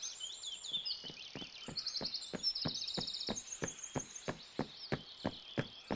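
Cartoon ambience of birds chirping and twittering in high trills, over a steady run of light footstep taps, about three or four a second, that grow louder toward the end.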